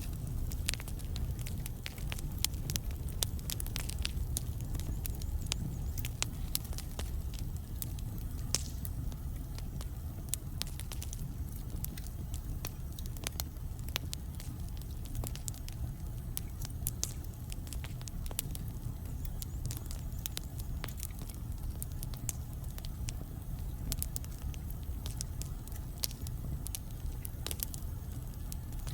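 Wood fire burning in a fireplace: irregular crackles and sharp pops of burning logs, scattered unevenly over a steady low rumble.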